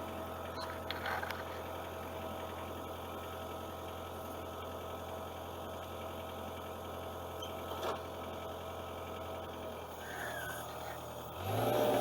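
Excavator's diesel engine idling steadily, with a few faint clicks over it. Near the end the engine throttles up and gets louder and higher.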